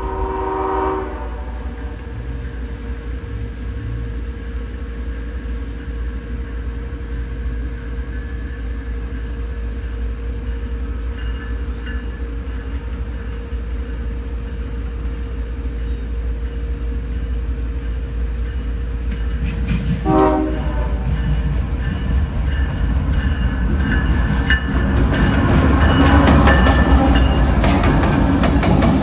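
Freight train with diesel locomotives approaching, engines rumbling low. The horn sounds briefly at the start and again about twenty seconds in. Near the end the wheels and cars clatter louder as the train comes by.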